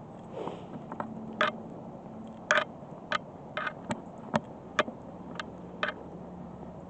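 A series of about ten sharp, irregular clicks and light taps over a faint steady hum.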